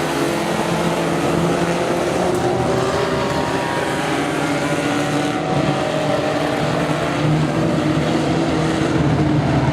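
Tough truck engines running hard in a dirt-track race: a loud, continuous engine drone.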